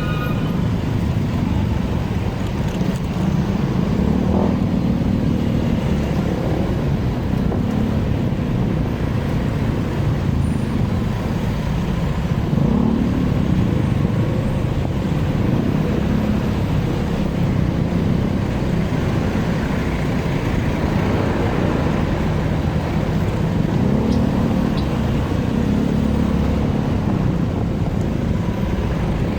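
Motorcycle engine running while riding through traffic, its note rising and falling several times with the throttle, over steady wind and road noise.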